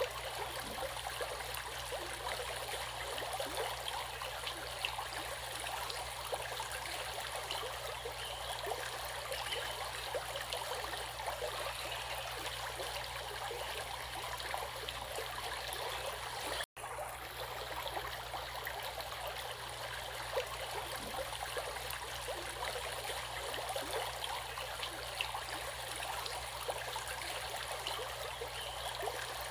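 Running stream water babbling steadily, with a dense patter of small splashes and trickles. It cuts out for an instant about two-thirds of the way through.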